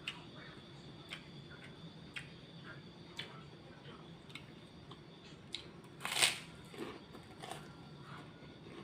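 Close-up chewing of karedok, a crunchy raw-vegetable salad, with sharp crunches about once a second and one louder crunch about six seconds in.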